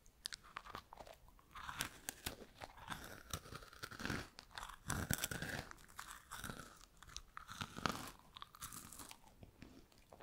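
Someone crunching and chewing freeze-dried strawberries: a run of dry, crisp crackles. It picks up about two seconds in and thins out near the end.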